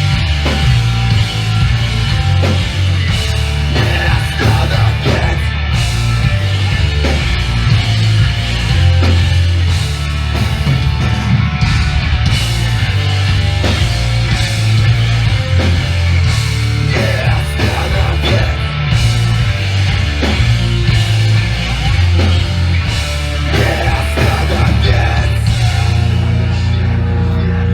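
Live hardcore punk band playing loud and full tilt, recorded in the room: distorted guitars, bass and pounding drums. Near the end the drumming eases off into a held, ringing chord.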